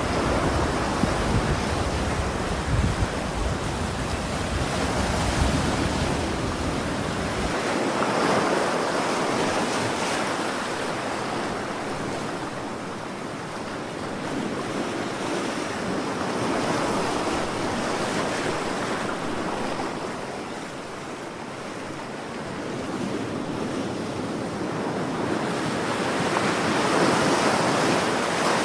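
Ocean waves surging and washing in slow swells, rising and falling every several seconds. A deep rumble under the surf for the first seven seconds or so cuts off suddenly.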